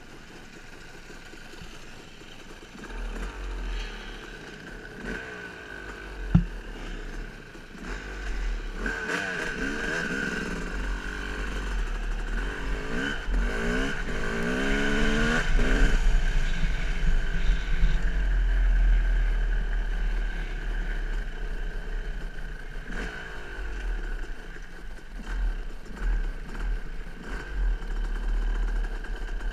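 Dirt bike engine running and revving, the pitch rising again and again between about 9 and 16 seconds as it accelerates, then settling to a steadier run. Wind rumbles on the microphone, and there is a single sharp knock about six seconds in.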